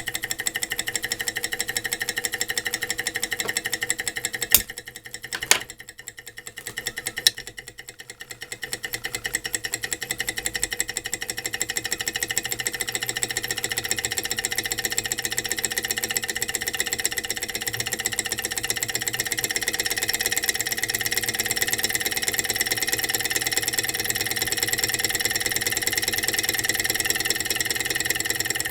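Small Stirling engine running fast with a steady, rapid mechanical clatter. About five seconds in it quietens for a few seconds, with three sharp clicks, then returns to a steady run.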